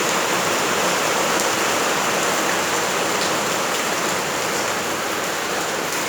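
Steady rain falling and pattering on surfaces: an even, dense hiss that does not let up.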